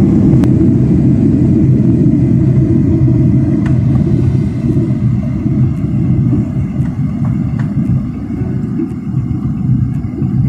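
Jet airliner cabin noise: a loud, steady low rumble that eases somewhat after about four seconds, with a few faint clicks.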